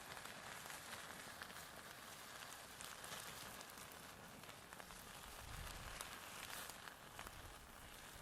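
Faint steady sizzle of a bone-in ribeye steak cooking over a wood fire, with scattered small crackles.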